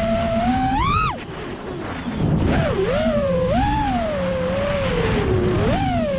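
FPV freestyle quadcopter's 2207 brushless motors and propellers whining, the pitch sliding up and down with the throttle. About a second in, the throttle is chopped and the sound drops, then it spools back up and keeps weaving.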